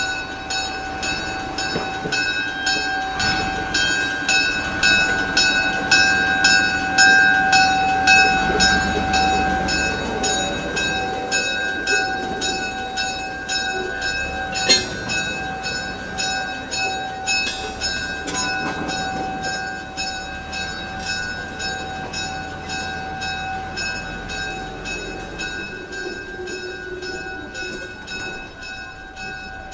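A train's bell ringing steadily, struck about three times a second, over the low rumble of a train. The sound grows louder for the first several seconds and then slowly fades.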